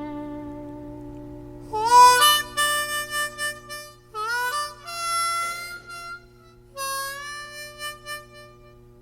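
Blues harmonica playing short phrases with notes bent up into pitch, over a fading strummed guitar chord and a steady low drone.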